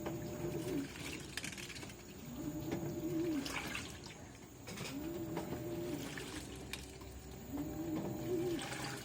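LG 18 kg washing machine agitating on its duvet cycle: the drum motor hums up and settles back about every two and a half seconds as the drum turns one way and then the other, with water sloshing and a few soft knocks from the wet load.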